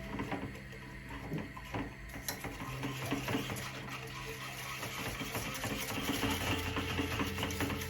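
Dishes and cutlery clinking in a series of short knocks and clicks, over soft background music with held notes.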